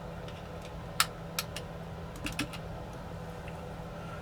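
A few small, sharp clicks of tweezers working a tiny screw out of a DJI Mini 4 Pro drone's plastic body: one about a second in, then three in quick succession a little after two seconds, over a steady low hum.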